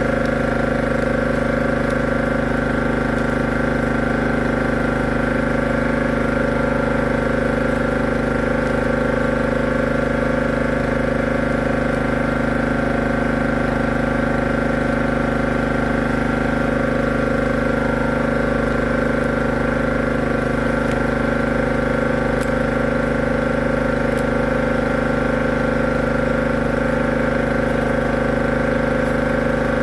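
A drain-clearing machine's motor running steadily, with an even hum that does not change.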